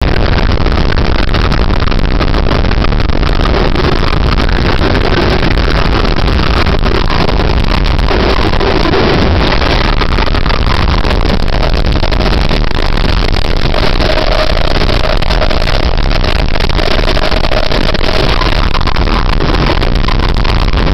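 Radio-controlled boat running on the water: a steady, loud rush of water and wind noise with a motor under it, unbroken throughout.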